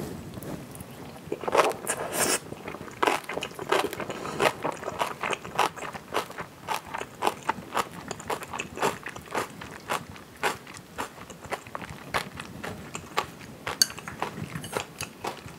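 Close-miked chewing of a mouthful of rice in black-bean jajang sauce with kimchi: steady, wet, crunchy chewing clicks, about two to three a second.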